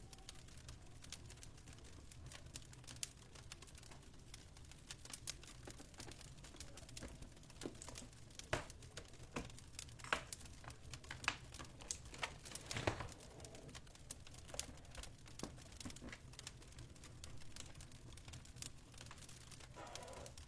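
Fireplace fire crackling: irregular sharp pops and snaps over a low steady rumble, busiest around the middle.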